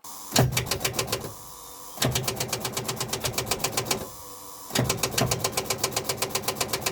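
Starter cranking the cold diesel engine of a 1985 Ford CL9000 cabover semi in three long bursts. It turns over in a steady rapid pulse, about eight beats a second, without catching.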